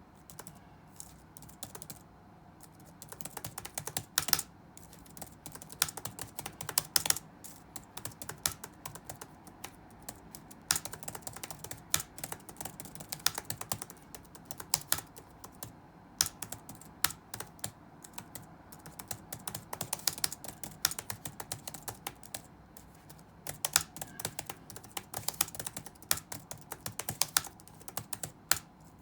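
Touch-typing on a computer keyboard: quick runs of key clicks broken by short pauses, with a few keystrokes, such as one about four seconds in, much louder than the rest.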